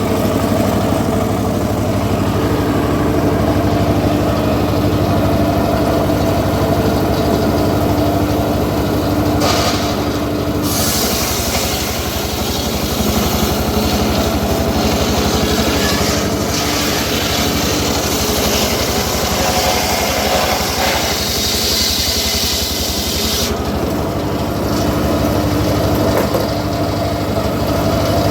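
Engine of a home-built circular sawmill running steadily. From about ten seconds in until about twenty-three seconds, the saw blade cuts through teak with a loud, high hissing noise over the engine, then drops back to the engine alone.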